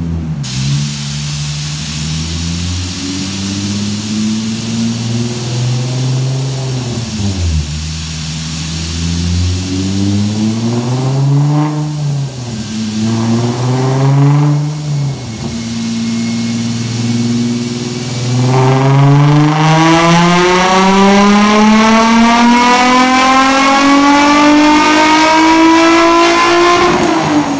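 Supercharged 2004 Nissan 350Z's 3.5-litre VQ35DE V6 running on a chassis dyno. For the first two-thirds the revs rise and drop back several times; then comes a long full-throttle dyno pull, the pitch climbing steadily for about nine seconds before the throttle is lifted near the end and the revs fall.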